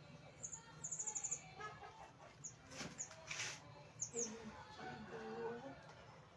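Small aviary birds chirping: short high chirps, with a quick run of about six about a second in and a couple more around four seconds.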